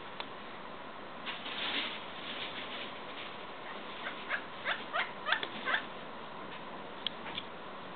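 Pileated woodpecker calling: a quick series of about six loud, ringing notes, roughly three a second. A single sharp tap follows near the end.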